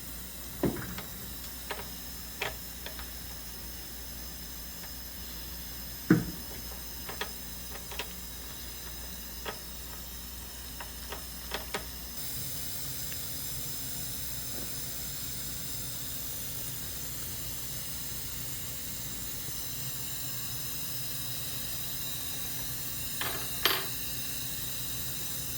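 Steady hiss of dental operatory equipment, which gets louder and brighter about halfway through, with light clicks and taps of dental instruments scattered over it, the sharpest about six seconds in and a small cluster near the end.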